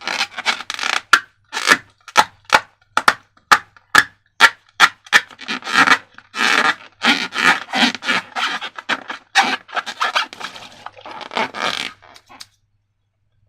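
Hands squeezing and working slime: a run of short squishing, scraping bursts with occasional sharp clicks, about two a second. It stops abruptly about a second before the end.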